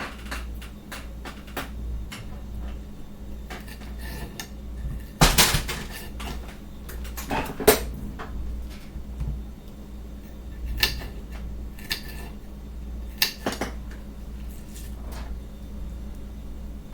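Knife chopping an onion on a cutting board: irregular knocks and clatter, loudest about five seconds in and again near eight seconds.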